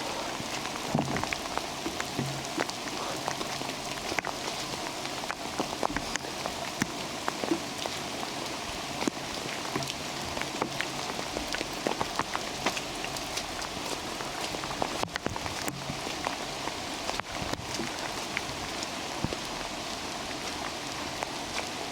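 Steady rain falling in a redwood forest, with many separate drops striking close by as sharp clicks over an even hiss.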